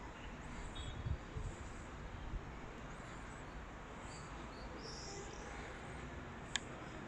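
Birds chirping here and there in short high calls over a steady outdoor hiss and low rumble. There is a single sharp click near the end.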